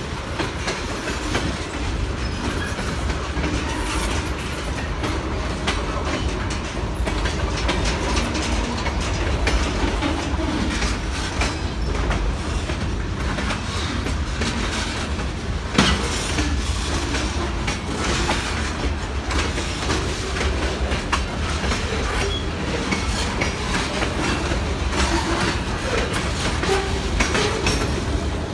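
Freight cars of a long mixed freight train rolling past close by: a steady rumble of steel wheels with clickety-clack over the rail joints, and one sharper clank about halfway through.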